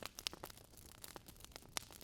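Wood fire in a fireplace crackling softly: irregular small snaps and pops over a faint hiss, with two sharper pops, one shortly after the start and one near the end.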